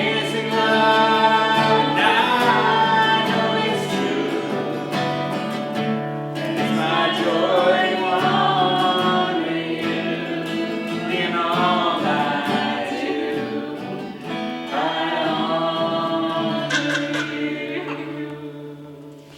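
Voices singing a song to acoustic guitar, dying away near the end as the song finishes.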